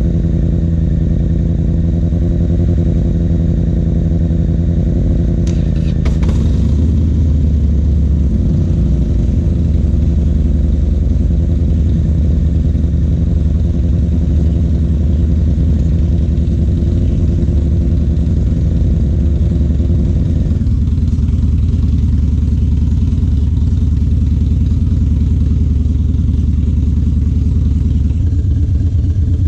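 Harley-Davidson Dyna Low Rider's V-twin running steadily through Two Brothers Racing (TBR) exhaust pipes, with a brief click about six seconds in. About twenty seconds in the engine note eases and runs lower.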